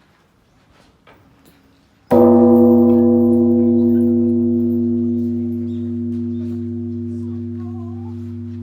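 A single deep bell-like strike about two seconds in, ringing on with several steady tones and a long, slow fade.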